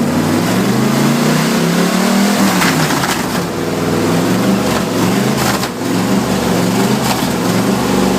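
An engine sound made with the mouth: a continuous buzzing 'brrrr' engine imitation, rising in pitch about two seconds in and then dropping back, like a revving motor.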